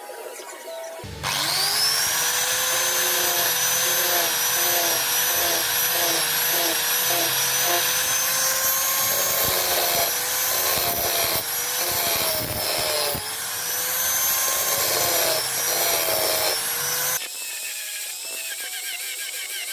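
Electric power tool motor spinning up about a second in and running at a steady high speed, its whine dipping in pitch at times as it bites into the work, then cutting off abruptly near the end. Light background music runs underneath.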